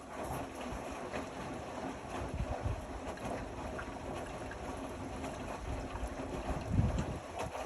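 Indesit Innex XWA 81252 washing machine drum turning during the wash, with water and laundry sloshing and a few soft thuds. The sound drops away at the very end as the drum stops turning.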